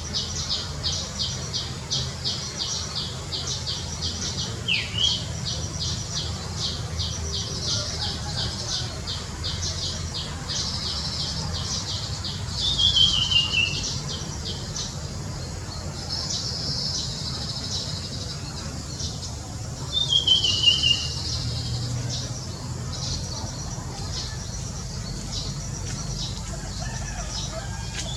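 Small birds chirping, a rapid run of repeated high chirps broken twice by a louder, briefly descending call, over a low steady background rumble.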